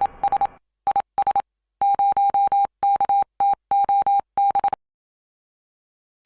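A run of short electronic beeps, all at one steady pitch, switching on and off in an uneven pattern of single beeps and quick groups, ending about three-quarters of the way in.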